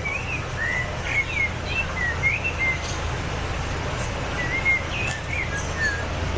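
A small songbird singing two runs of quick chirping notes, the second beginning a little past the middle, over the steady low drone of a narrowboat's diesel engine.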